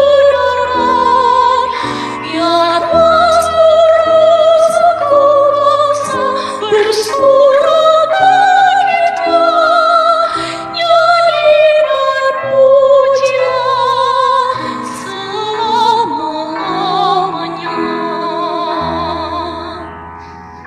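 Church choir singing a sacred piece, with high voices carrying the melody in strong vibrato over sustained lower parts. It grows quieter near the end.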